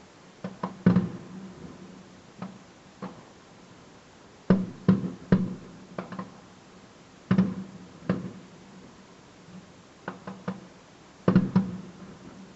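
Firework shells bursting: groups of sharp bangs, two or three close together every second or two, each with a short echoing tail.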